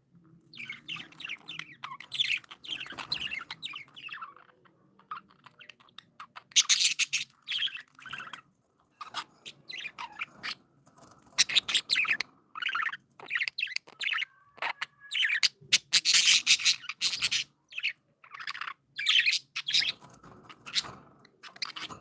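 Budgerigars chirping and chattering in short, irregular bursts with brief pauses between.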